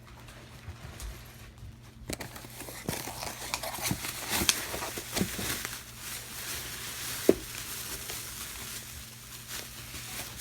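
Cardboard box and packaging being handled and opened by hand: irregular rustling and scraping with scattered sharp clicks, starting about two seconds in, with one sharper snap about seven seconds in.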